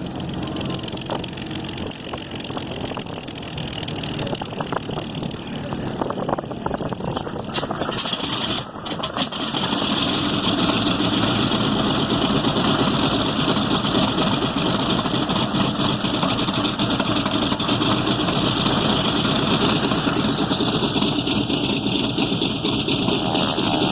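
Pratt & Whitney R-2800 eighteen-cylinder radial engine of a P-47G Thunderbolt during start-up, running unevenly at first. About nine to ten seconds in it picks up and settles into a louder, steady run.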